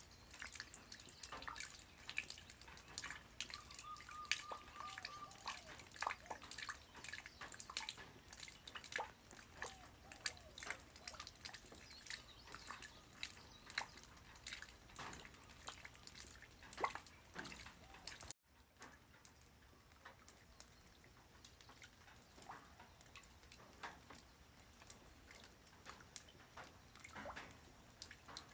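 Light rain falling on the ground: a patter of separate drops over a faint hiss. A brief dropout comes about two-thirds of the way through, and after it the drops are fainter and sparser.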